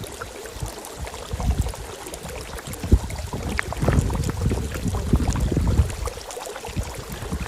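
Boiling geothermal pool bubbling, with irregular low plops and blups breaking at the surface.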